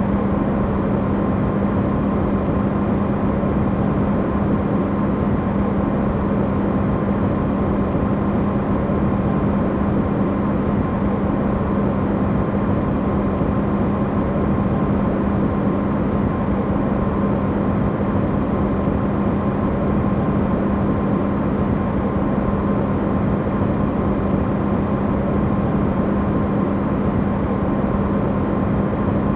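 Electrolux refrigerator running, recorded amplified: a steady, unchanging hum with a clear low tone over an even noise, used as white noise.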